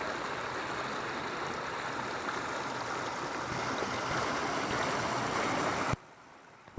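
Waterfall and stream water rushing in a steady, even wash, slowly growing a little louder, then cutting off about six seconds in.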